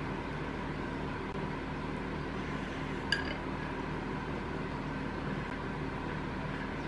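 A steady mechanical hum with a single short ringing clink, as of metal or glass, about three seconds in.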